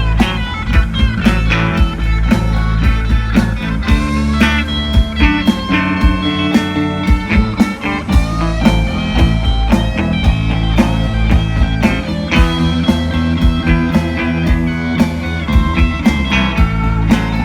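Rock band playing an instrumental break with no vocals: a lead guitar over bass and drums with a steady beat.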